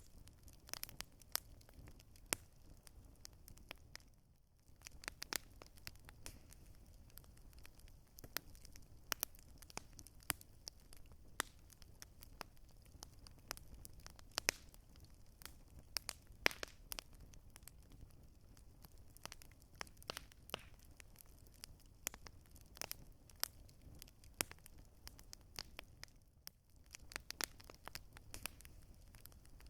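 Campfire crackling: wood popping and snapping in irregular sharp clicks over a low steady hiss of burning, with two brief lulls, about four seconds in and near the end.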